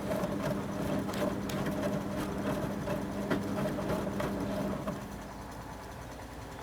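Motor of a 1974 Zoppas Superautomatic 242 washing machine turning the drum, a steady hum with rapid clicking and knocking, which stops about five seconds in, leaving a lower background.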